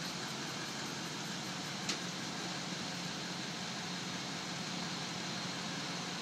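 Crane truck engine running steadily, a low hum under an even rush of noise, with one short sharp click about two seconds in.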